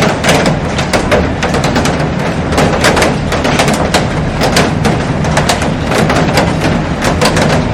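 Heavy rain on a glass roof: a dense, irregular patter of sharp drop impacts over a steady wash of falling rain.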